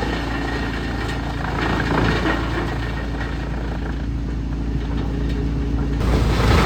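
Wood chipper's engine running steadily, with scattered crackling; the sound turns abruptly louder and fuller about six seconds in.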